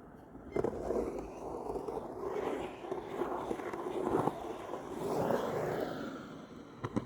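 Skateboard wheels rolling and scraping over pavement, swelling and fading, with a sharp clack about half a second in and another near the end.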